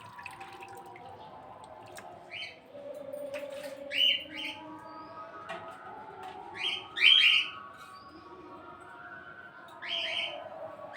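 Birds chirping outdoors: about six short, sharp downward-sliding chirps, spaced irregularly, the loudest about seven seconds in.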